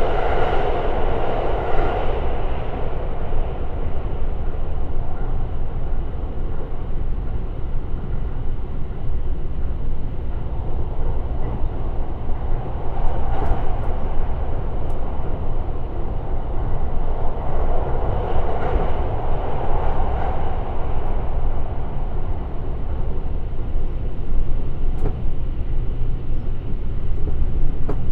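Running noise of the Limited Express Shirasagi electric train on the move: a steady rumble of wheels on rail that swells a few times and carries a few faint ticks.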